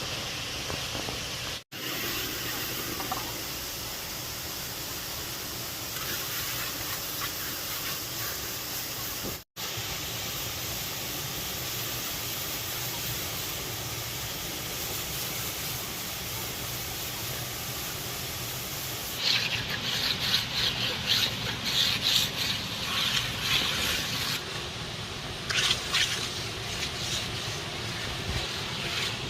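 Waterfall rushing steadily, cut twice by brief drop-outs. About two-thirds of the way through, a louder, irregular crackling or scraping comes over it for several seconds, stops briefly, then returns.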